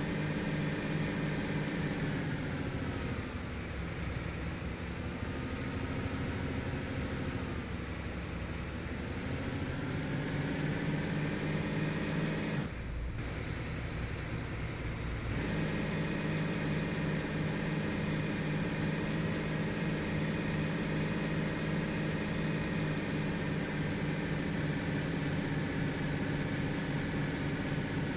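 Heavy vehicle's engine running, its pitch sagging for several seconds and then rising back before settling to a steady run.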